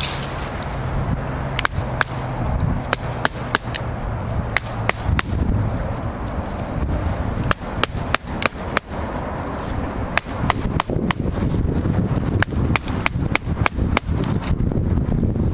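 Repeated sharp, irregular knocks of a wooden baton striking the spine of a Cold Steel Finn Hawk knife, driving the blade across a log, with wind rumbling on the microphone.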